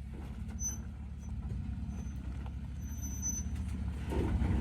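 Third-generation Toyota Tacoma's engine running at low revs as the truck crawls forward over rock, a steady low rumble that grows a little louder near the end.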